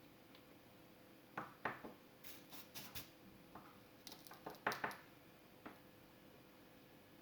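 A run of small, sharp clicks and knocks, like tools or parts being handled on a workbench, starting about a second and a half in and ending near six seconds, over a faint steady hum.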